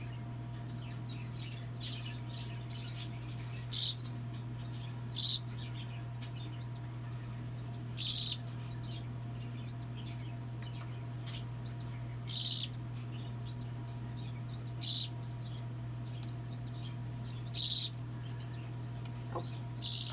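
Hand-fed baby bird giving shrill begging chirps, about six loud short calls a few seconds apart with fainter chirps between, the sound of a nestling asking for food while being fed. A steady low hum runs underneath.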